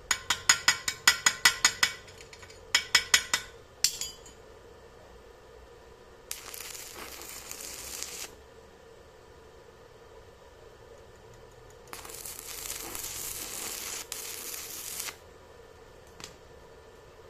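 A rapid run of sharp taps, about five a second for two seconds, then a shorter group of four or five and a single tap. Later come two stretches of steady hiss, about two and three seconds long.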